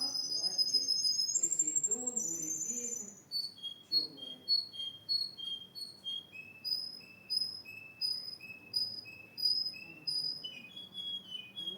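A male canary singing: rapid high whistled notes at first, then a phrase of short chirps repeated about twice a second, stepping down to a lower pitch about halfway through.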